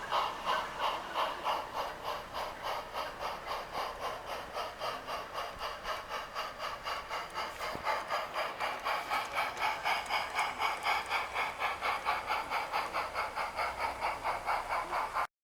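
G scale model train running, with an even, noisy beat about four times a second that grows louder from about eight seconds in, then cuts off suddenly near the end.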